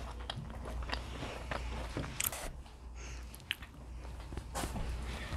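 Crunchy chewing and biting of a crisp home-baked chocolate chip cookie: a run of small crackles with two louder crunches, about two and four and a half seconds in, over a low steady hum.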